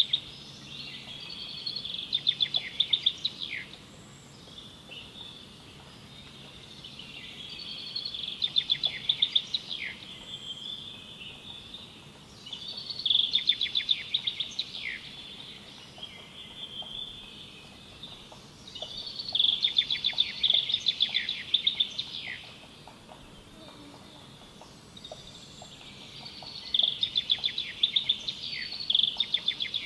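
A bird singing: a phrase of rapid trilled notes ending in quick downward slurs, about two seconds long and repeated roughly every six seconds.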